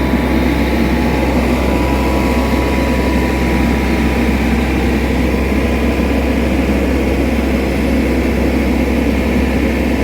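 Small excavator's diesel engine running steadily with a constant low hum.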